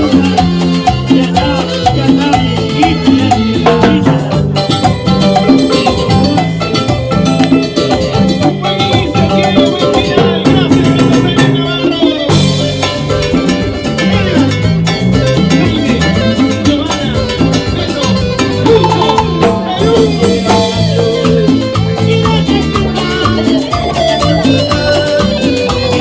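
Band playing Latin dance music with a steady percussion beat.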